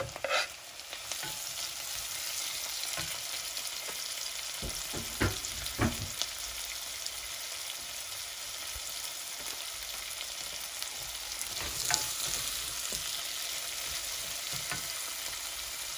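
Diced tomatoes and onions sizzling in a hot pot as they are stirred with a wooden spoon, a steady frying hiss. The spoon knocks against the pot a few times: at the start, twice about five to six seconds in, and once near twelve seconds.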